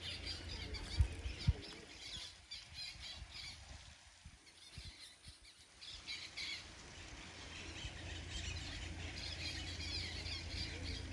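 A group of birds calling, a dense chatter of squawky calls that goes on throughout. A low rumble runs underneath, with two sharp knocks about a second in.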